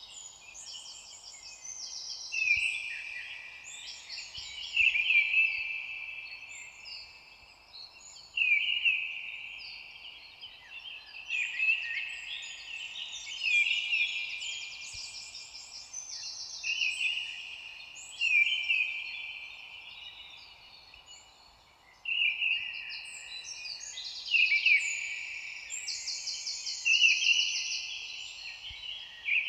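Several songbirds singing at once, overlapping trilled and warbled phrases starting every second or two, over a faint steady background hiss.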